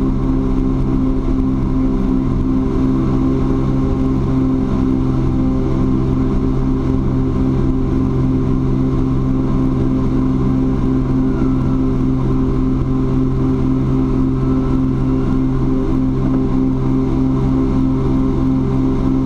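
Cessna T310R's twin turbocharged Continental engines and propellers heard inside the cockpit: a steady, unchanging drone with a constant propeller hum, the engines pulling hard in the climb after takeoff.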